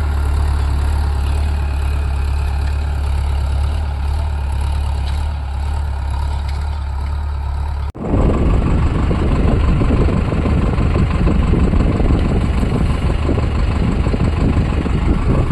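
Diesel tractor engine running steadily with a low hum. About eight seconds in, the sound cuts abruptly to a louder, rougher engine run.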